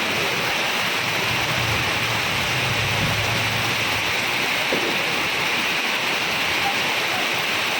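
Heavy rain falling steadily, a constant even downpour noise.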